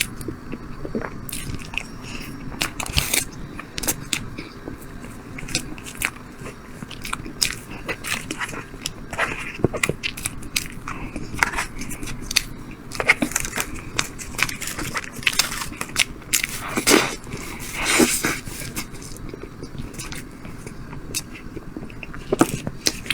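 Close-miked eating: repeated bites and chewing with wet mouth clicks and occasional crunches, the loudest bites about three-quarters of the way through.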